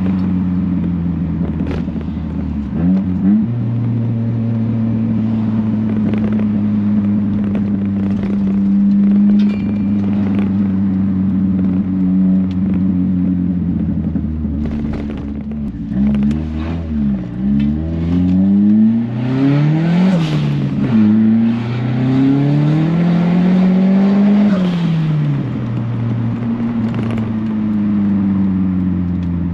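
Turbocharged 1.6-litre engine of a B13 Nissan Sentra heard from inside the cabin while driving. It drones steadily at first; from about halfway through, its pitch climbs and drops several times as the car accelerates and shifts up through the gears.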